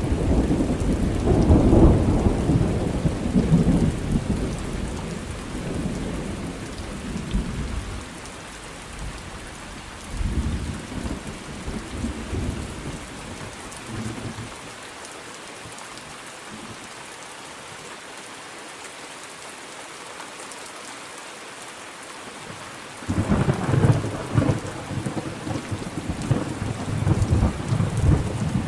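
Thunderstorm: rain falling steadily, with thunder. A long low rumble at the start dies away over several seconds, then comes a stretch of rain alone, and a second rumble breaks in suddenly about four-fifths of the way through.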